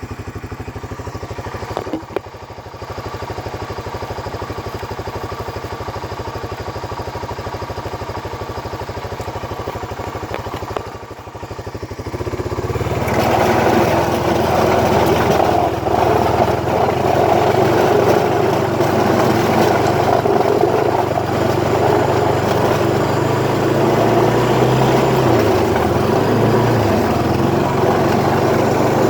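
Honda ATV engine idling steadily, then throttling up about twelve seconds in and running louder as the machine pushes snow.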